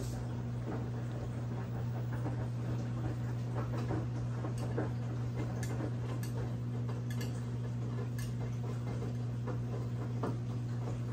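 Brastemp 17 kg washing machine running mid-cycle: a steady motor hum with scattered small clicks and knocks.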